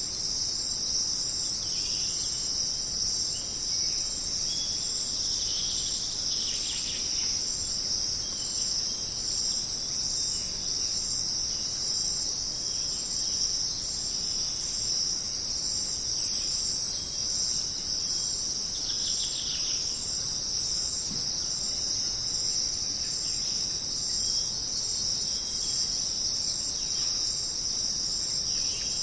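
Jungle night-insect chorus: a steady, dense high-pitched trilling of many insects, with a few brief bird calls now and then.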